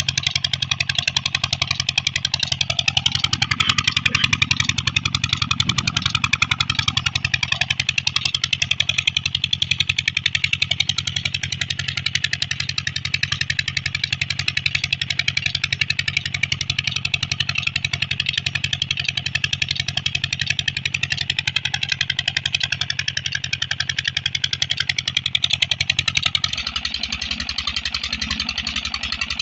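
Petter diesel engine running steadily after a cold start, with an even, rapid firing beat. About 26 seconds in its note changes and it runs a little quieter.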